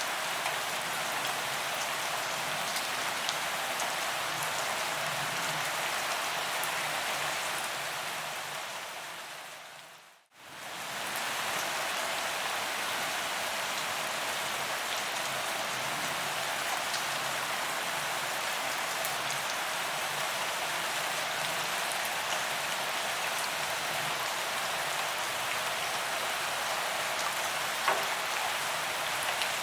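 Steady rain falling on a paved promenade, an even hiss scattered with faint drop ticks. About ten seconds in it fades smoothly down to near silence and comes straight back up. One sharper drop tick comes near the end.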